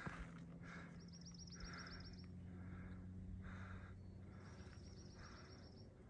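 A songbird sings a high, fast trill twice, each lasting just over a second, with softer lower notes between. A faint steady low hum runs underneath.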